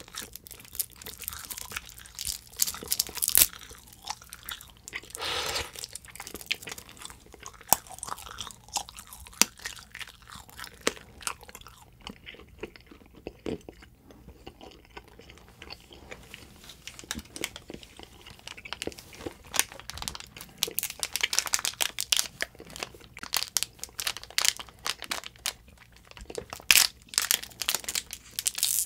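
Close-up chewing of an edible tape candy, with crisp crunching and biting clicks, louder and denser at first, easing off for a few seconds midway and picking up again later. Near the end a plastic wrapper crinkles as a new packet is opened.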